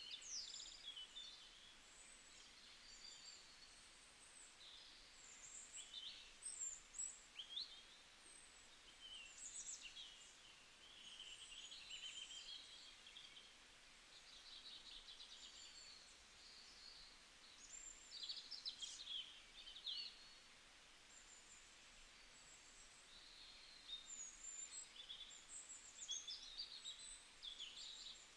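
Faint birdsong: many short chirps and quick trills from small birds, scattered throughout over a low steady hiss.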